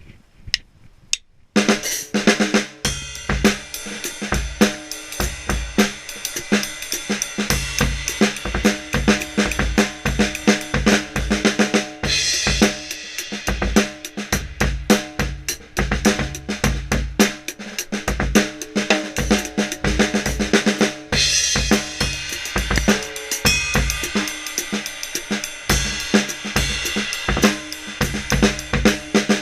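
A drum kit being played: a few clicks, then from about a second and a half in a busy beat on snare, bass drum and hi-hat, with cymbal crashes washing over it about twelve seconds in and again about twenty-one seconds in.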